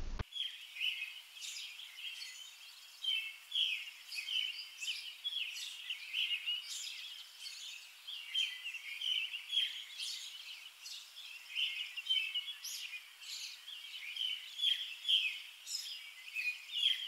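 Small birds chirping and twittering, a dense run of short high calls overlapping one another.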